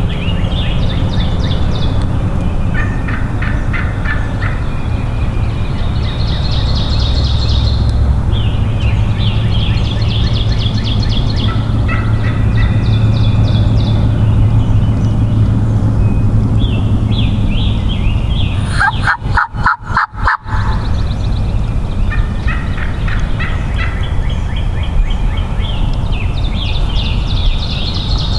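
Wild turkey gobblers (eastern) gobbling again and again, about ten rattling gobbles of a second or so each, some overlapping. One gobble about two-thirds of the way through is much louder and closer than the rest.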